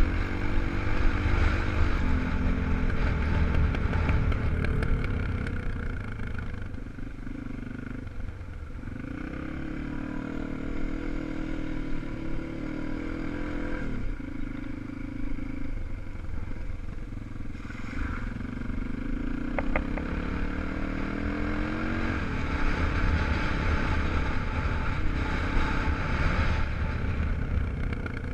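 250 cc enduro motorcycle engine being ridden hard off-road, revving up and easing off repeatedly, with pitch climbing and then dropping several times as the throttle is opened and closed.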